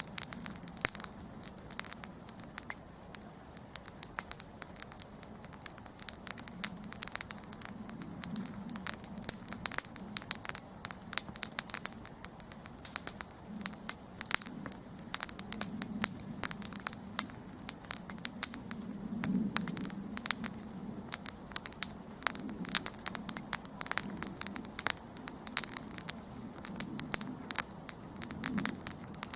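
Wood campfire burning, with dense, irregular sharp crackles and pops over a low, soft rumble of flames.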